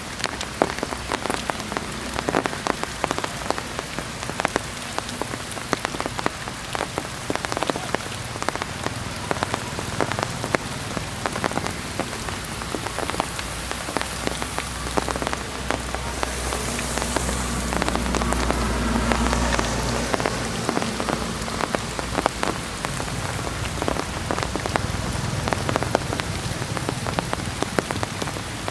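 Heavy rain falling, with many individual drops hitting close by. Around two-thirds of the way through, the noise swells for a few seconds with a low rumble.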